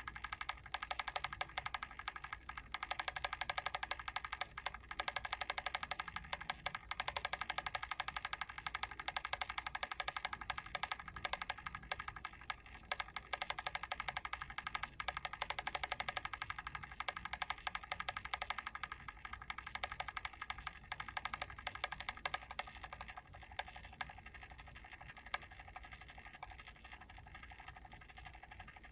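Mechanical timer switch clicking rapidly and continuously, a dense run of small, light clicks. They grow quieter over the last few seconds.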